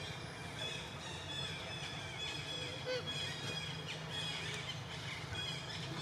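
Birds chirping and squealing: many short, high calls overlapping, some with quick upward or downward slides, over a steady low hum.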